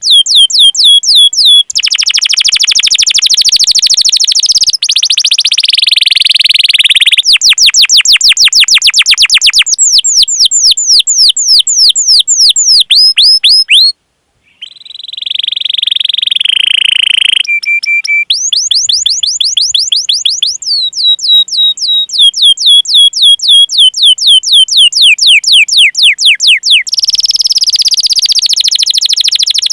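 Domestic canary singing: long, loud runs of rapidly repeated sweeping 'cuit cuit' notes, several a second, alternating with dense rolling trills. The song breaks off briefly about halfway through, then resumes.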